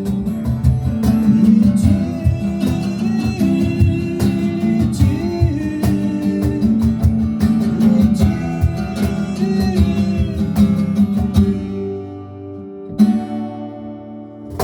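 Instrumental break in a song: a strummed guitar playing a steady rhythm with held chords. About twelve seconds in it thins out and quietens, and a new figure starts sharply a second later.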